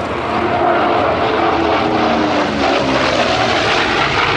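A propeller-driven warbird's piston engine runs loudly as the aircraft flies past, its engine note falling in pitch about two seconds in.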